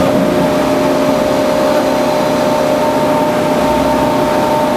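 Band saw running steadily: a constant mechanical hum with a few held tones over loud noise.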